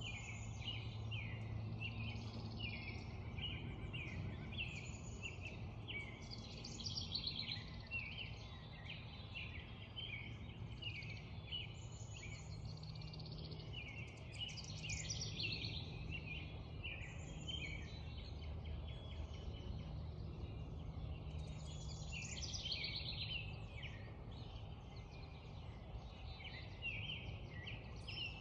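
Spring dawn chorus: many songbirds singing and calling over one another without a break, over a low, steady background rumble.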